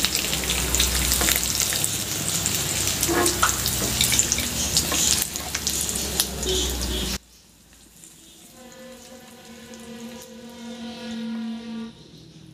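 Marinated chicken tikka pieces sizzling in hot oil in a nonstick pan, with the scrapes and taps of a wooden spatula lifting the pieces out. The sizzle cuts off suddenly about seven seconds in, leaving only a faint steady tone for a few seconds.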